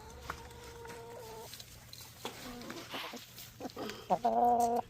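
Backyard hens clucking, with short calls in the middle and a loud, drawn-out call near the end.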